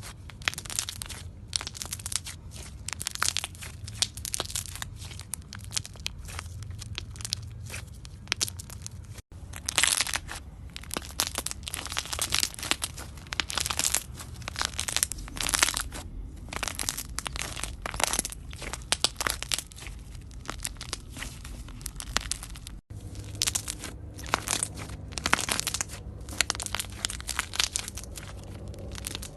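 Close-up crunching and crackling of something brittle being crushed: a dense, irregular run of sharp crackles, with two brief gaps where one clip cuts to the next.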